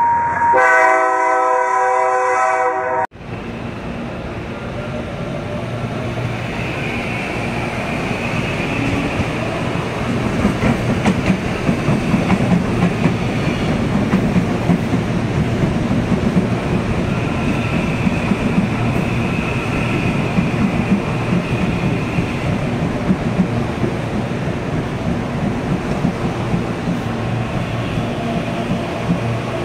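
CPTM Series 8500 electric commuter trains moving at a station platform: a steady rumble of wheels on the rails, growing louder about ten seconds in, with a faint whine that rises and falls. It opens with about two seconds of a steady electronic tone.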